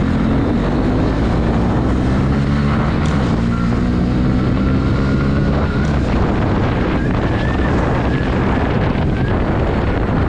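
Motorcycle engine running while riding, its pitch shifting a little as the speed changes, with wind buffeting the microphone.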